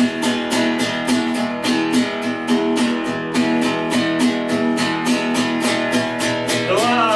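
Acoustic guitar strummed in a steady, even rhythm, about four strums a second, holding the chords; a gliding voice comes in near the end.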